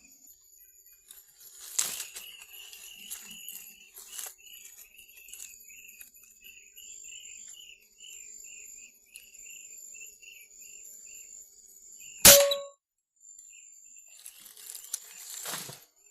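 A single sharp air-rifle shot about twelve seconds in, followed by a short metallic ring. Under it runs a steady high insect whine, with a string of short repeated chirping notes for several seconds before the shot.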